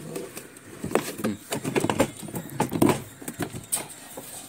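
Irregular knocks and clatter as a washing machine's parts are handled and fitted into place.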